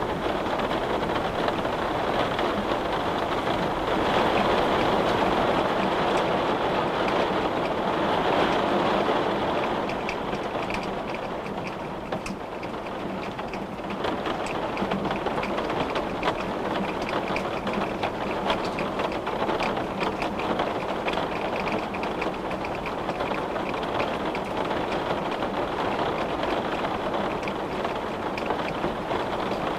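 Steady rain, a dense hiss of rainfall with many small drops ticking against a window, swelling a little early on and easing around the middle.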